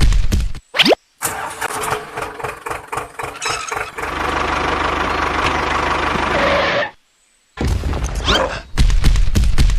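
Engine sounds in short, abruptly cut pieces. A quick rising sweep comes first, then a run of rapid knocking. A steady engine run follows and cuts off suddenly, and after a short gap another loud low engine stretch begins.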